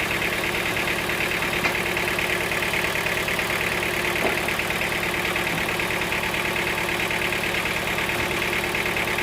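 An engine running steadily at an even idle, with a fast, unchanging pulse and no cutting or load change.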